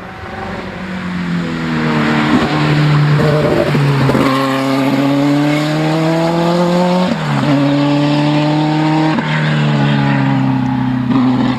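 Group B rally car engine accelerating hard through the gears. The pitch climbs in each gear and drops at three upshifts, about four, seven and nine seconds in.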